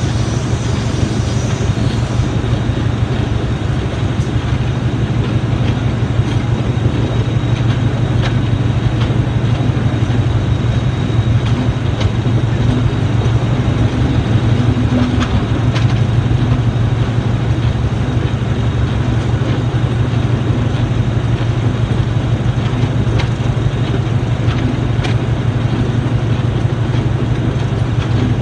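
Diesel-hauled train running along the line, heard from an open carriage window: a steady low engine drone over continuous wheel-and-rail and wind noise, with a few faint clicks.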